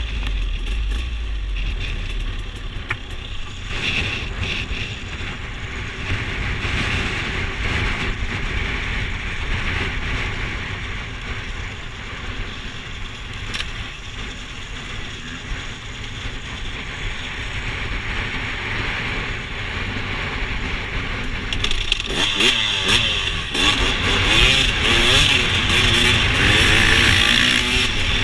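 Dirt bike engine running under way on a trail, its pitch rising and falling with the throttle. It gets louder with revving in the last quarter.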